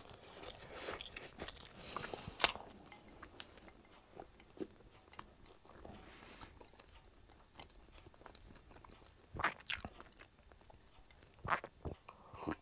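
A person chewing a mouthful of pizza close to the microphone, with wet mouth clicks and one sharp click about two seconds in. In the second half come sips and swallows from a glass of drink.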